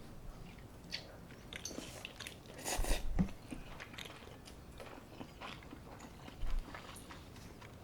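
Close-miked eating: a person biting and chewing food, in short scattered clicks, with a louder run of bites about three seconds in and a short one about six and a half seconds in.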